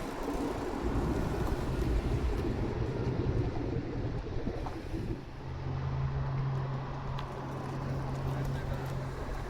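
Car engine running at low speed, a low rumble that settles into a steady deep hum about halfway through.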